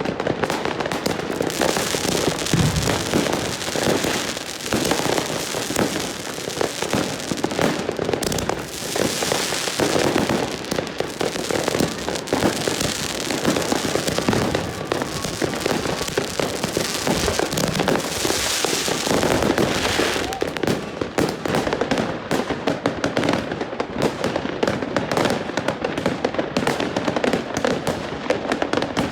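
Many fireworks and firecrackers going off at once, overlapping bangs and crackles without a break.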